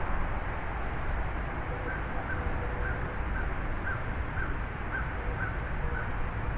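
Steady wind and rain noise of a thunderstorm, with wind rumbling on the microphone. From about two seconds in, a bird calls in a quick run of about nine short calls, about two a second.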